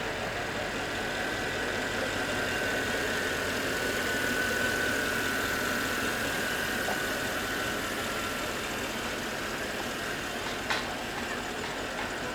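A machine running steadily, with a high whine that swells a little in the middle, and a single sharp click near the end.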